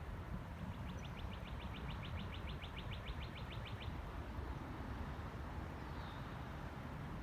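A songbird sings a fast, even trill of about nine short high notes a second, lasting some three seconds, and later gives one short falling chirp. Under it runs a steady low rumble of wind, the loudest sound throughout.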